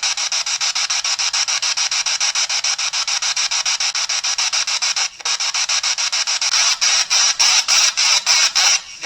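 Spirit box (ghost box) sweeping through radio frequencies: hissing static chopped into rapid even pulses, several a second, briefly dropping out twice.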